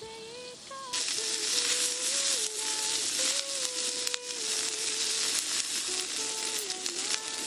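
Food frying in a pan: a loud sizzling hiss starts suddenly about a second in and keeps going, over a soft background melody.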